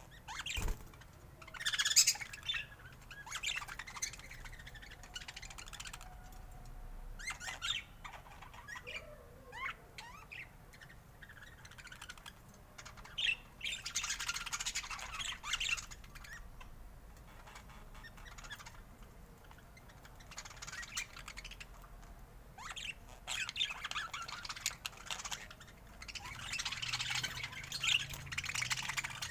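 Budgerigars chirping, chattering and squawking in repeated flurries with short quieter gaps, loudest about two seconds in and busy again near the middle and toward the end. A single low knock sounds under a second in.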